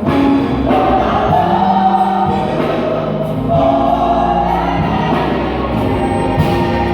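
Gospel vocal group singing together, holding long sung notes.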